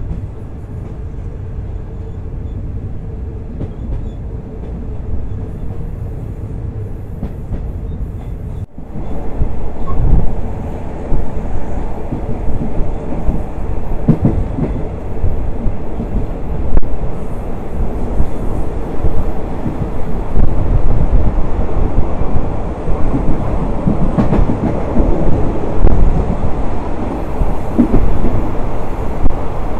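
Third-class passenger train running on its rails, heard from inside a carriage: a steady low rumble and rattle of wheels and car body. After a brief break about nine seconds in, it is louder and rougher, with occasional knocks.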